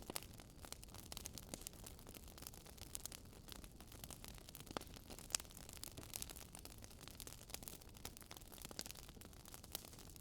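Faint crackling of a wood bonfire: irregular small pops and crackles over a soft steady hiss, with a few sharper pops.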